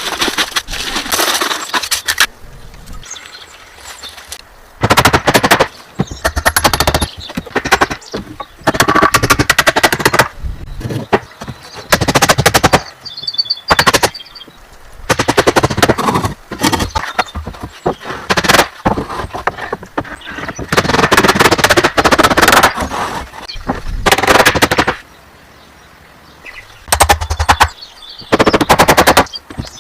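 Repeated bursts of rapid, sharp knocking, each burst lasting one to two seconds with short pauses between.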